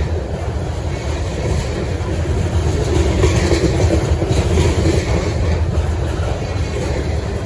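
Freight train rolling past, a steady loud rumble of wheels on the rails.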